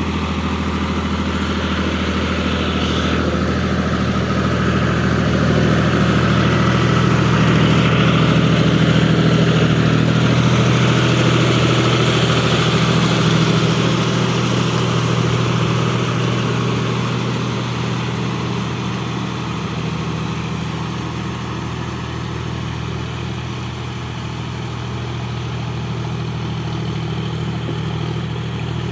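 John Deere 5050D tractor's three-cylinder diesel engine running steadily, getting somewhat louder toward the middle and then easing back down.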